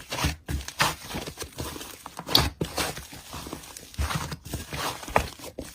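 Slime being squished and poked by hand, making irregular sticky crackles, clicks and pops.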